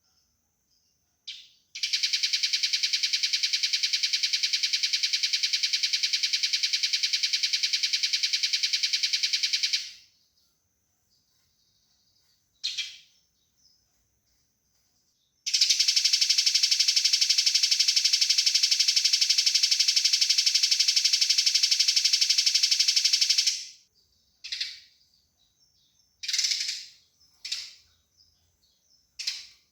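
Eurasian tree sparrow giving a fast, dense, rattling chatter of the kind sparrows make when fighting: two long runs of about eight seconds each, with short single chirps between them and several more near the end.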